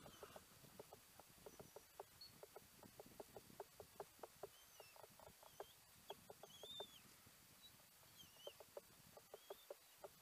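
Faint bird sounds: short clucking notes repeating a few times a second, joined by thin, wavering high chirps from about halfway through.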